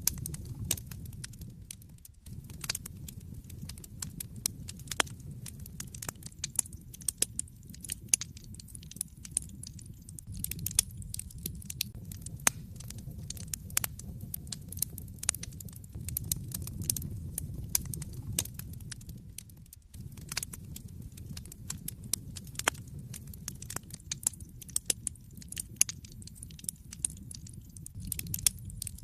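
Wood fire burning in a fireplace: dense, irregular crackling and popping over a steady low rumble of flame. The sound dips briefly about two seconds in and again near twenty seconds.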